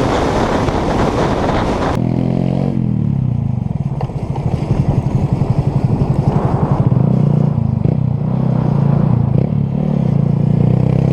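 Wind buffeting the microphone for about two seconds, then an abrupt cut to a vehicle engine running with a steady, throbbing pulse.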